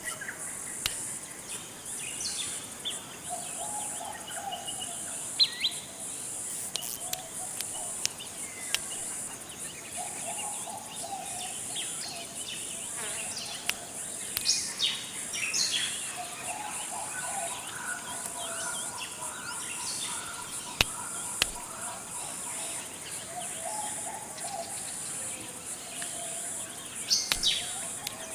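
Tropical forest ambience: a steady high-pitched insect drone, with birds chirping now and then and low warbling calls recurring every few seconds.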